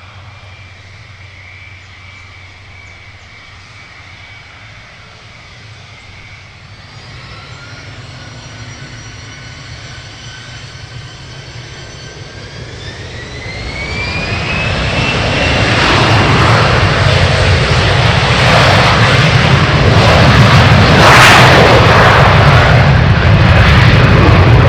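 Gulfstream G450's twin Rolls-Royce Tay turbofans spooling up to takeoff power: a steady whine that starts rising in pitch about a third of the way in, climbs sharply, and gives way to loud jet engine noise that keeps growing as the takeoff roll begins.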